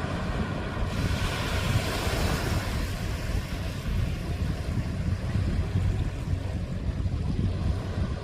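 Wind rumbling on the microphone over surf washing on the shore; a wave swells up about a second in and eases off by about three seconds.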